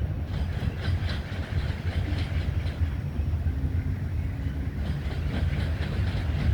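CSX freight train cars rolling past: a steady low rumble with a rapid, irregular run of clicks from the wheels on the rails.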